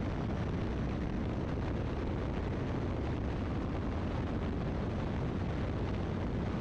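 Great Lakes open-cockpit biplane in flight: a steady drone of its engine mixed with wind rushing past the open cockpit.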